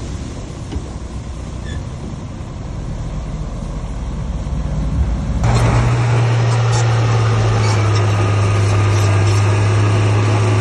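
Heavy diesel construction machinery running: a low engine rumble, then about halfway through it abruptly gets louder, with a steady low drone and clattering noise.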